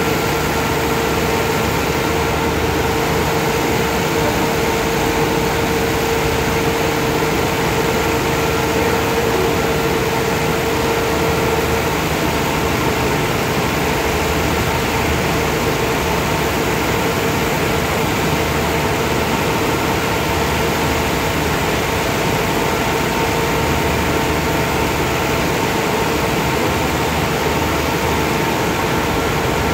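Steady drone of a standing express train idling at the platform: its diesel engines run with a low pulsing rumble and a constant hum, one tone in the hum stopping about twelve seconds in.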